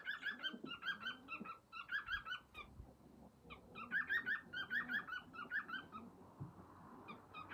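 Male cockatiel singing its mating call: rapid runs of short, repeated chirping notes in two bouts, with a brief pause about three seconds in.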